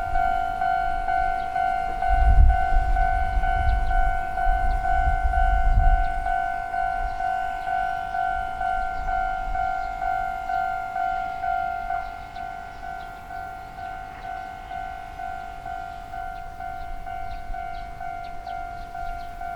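Railway level-crossing warning bell ringing, a repeated ding about one and a half times a second. A low rumble comes in from about 2 to 6 seconds, and the bell gets a little quieter after about 12 seconds.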